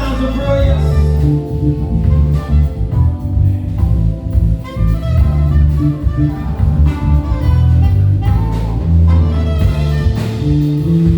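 Live band playing jazz: a prominent, busy bass line over a drum kit, with keys and a melody line above.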